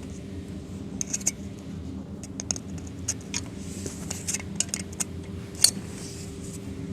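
Irregular metallic clicks and clinks of hand tools and parts being handled, over a steady low hum; the sharpest click comes about two thirds of the way through.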